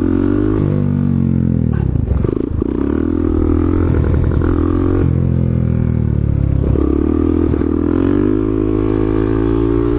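Motorcycle engine running under way, its pitch climbing and dropping sharply twice, about two seconds in and again near seven seconds, as with gear shifts or throttle changes.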